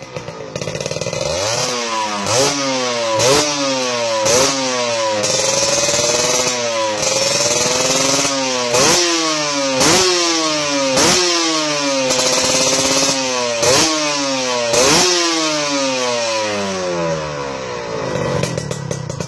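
Two-stroke Kawasaki Ninja single-cylinder engine breathing through a stainless-steel aftermarket expansion-chamber exhaust, blipped repeatedly from idle. The pitch climbs and falls about a dozen times, is held briefly at the top a few times, and drops back to idle near the end.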